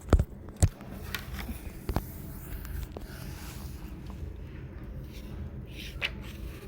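A book being handled and its pages turned: a couple of sharp knocks in the first second and another at about two seconds, with softer rustles and one more knock near the end, over a low steady room hum.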